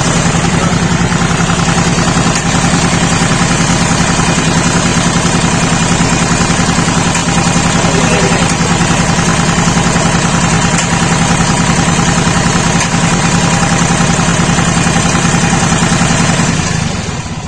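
Lister Petter LPW3 three-cylinder diesel engine running steadily with an even, rapid clatter, then shut down near the end as its sound dies away.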